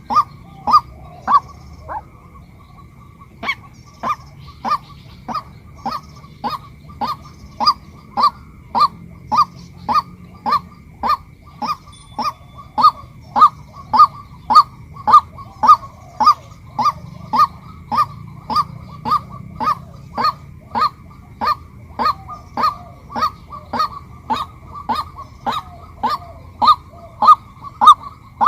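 Female white-breasted waterhen calling: a long series of short, loud, evenly repeated notes, about two a second, with a short break about two seconds in.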